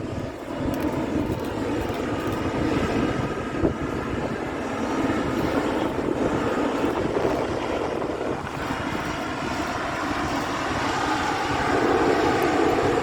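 Jet airliner engines running, a steady rushing noise with a faint whine, growing louder toward the end.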